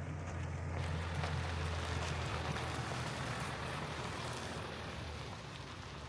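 Vehicle driving: a steady low engine drone under a broad hiss of road noise that grows louder about a second in.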